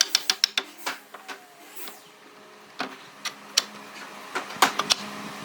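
A fast run of sharp taps, about six a second, that stops within the first second, followed by a few scattered knocks in the second half.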